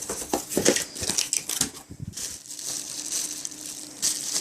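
Packaging crinkling and rustling as parts are handled and unwrapped from a box, in irregular crackles with a louder rustle near the end.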